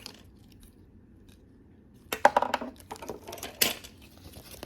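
Small plastic accessories being handled: a quick run of clicks and light clatter starts about two seconds in, with a louder knock a little over a second later.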